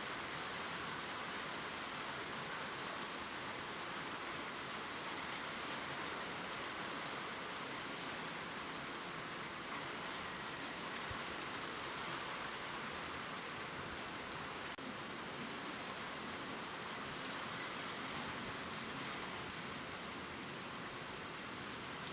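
Steady gentle rain pattering on leaves, a soft even hiss with fine scattered drip ticks.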